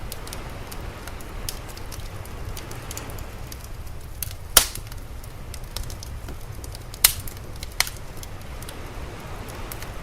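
Wood fire crackling, with a loud sharp pop about halfway through and two more a few seconds later, over a steady low rumble of sea waves.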